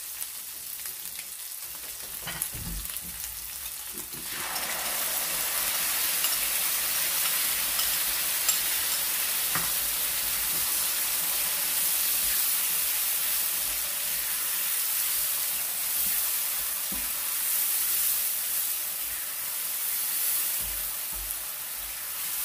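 Chicken pieces frying in hot oil in a non-stick pan, sizzling quietly. About four seconds in, curry sauce goes into the hot oil and the sizzling jumps much louder, then keeps on steadily as a spatula stirs it, with the odd light scrape.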